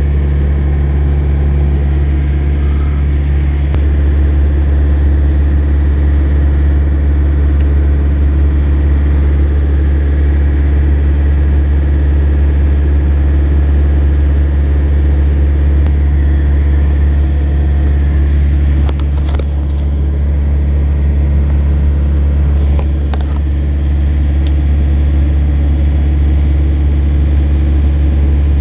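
A large engine idling steadily, a deep constant drone that doesn't change, with a couple of faint clinks about two-thirds of the way through.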